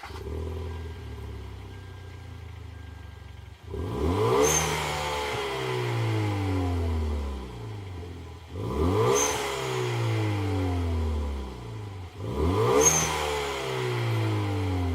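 Hyundai Veloster Turbo's turbocharged four-cylinder engine through an aftermarket WABBP rear muffler tuned for a mid-high exhaust tone: idling, then revved three times, each rev climbing sharply and sinking slowly back to idle.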